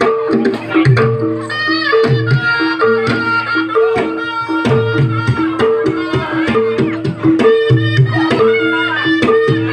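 Javanese jaranan (kuda lumping) gamelan music playing for a trance dance. Hand drums beat a steady rhythm under a repeating cycle of two gong-chime notes, with a high wavering melody line above.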